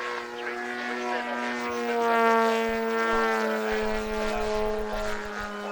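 Engine and propeller of a 35% scale Edge 540 RC aerobatic plane droning in flight. It grows loudest a little after two seconds in, with the pitch shifting slightly, then eases off.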